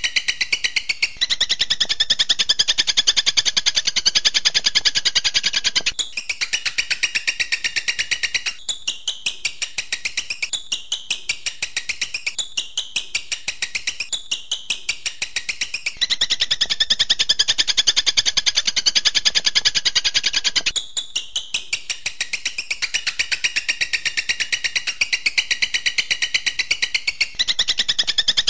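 Bird-training masteran recording of songbird volleys: dense, very rapid trilling chatter that switches abruptly from one song type to another every few seconds, with a stretch of falling phrases about once a second in the middle.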